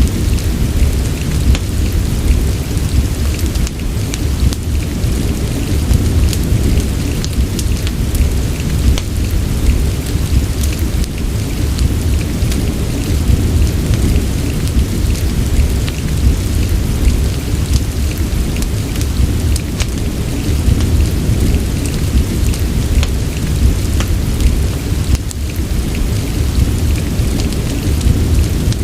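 Steady rain with a deep, continuous low rumble, and many small sharp crackles scattered through it, as from a wood fire burning in a fireplace.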